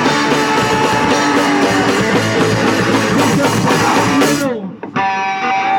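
Punk rock band playing live: loud electric guitar over drum kit. About four and a half seconds in, the full band breaks off, and steady held tones ring on.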